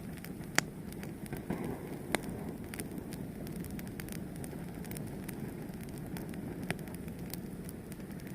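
A fire burning with a steady low rush and scattered sharp crackles and pops, the loudest about half a second in, at two seconds and near the end.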